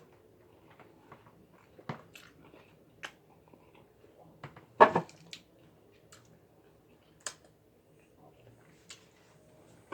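Close-up eating sounds: a person chewing and biting food with scattered wet clicks and smacks, and a louder crunching burst about five seconds in.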